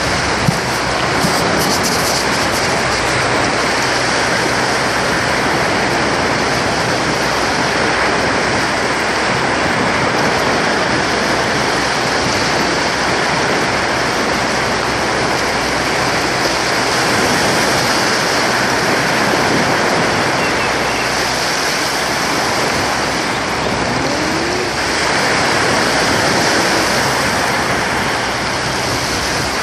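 Sea surf washing onto a beach in a continuous rush of waves, swelling a little near the end.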